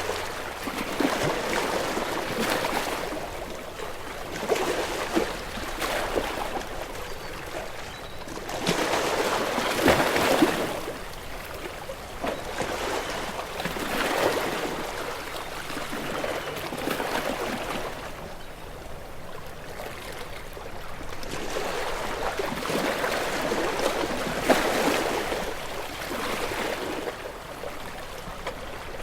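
Ocean waves washing in, a noisy rush that swells and ebbs every few seconds, with the biggest surge about ten seconds in.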